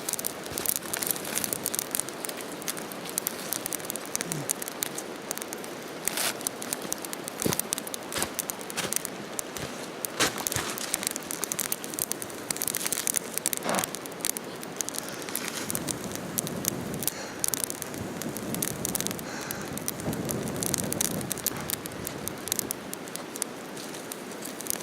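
Small campfire of leaves and kindling crackling, with many irregular sharp snaps over a steady hiss and some rustling of dry fuel.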